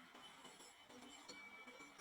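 Near silence: faint room tone between bursts of marble clatter.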